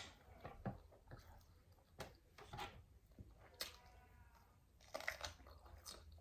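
Faint chewing with scattered small clicks and crunches of eating, picked up close to the mouth.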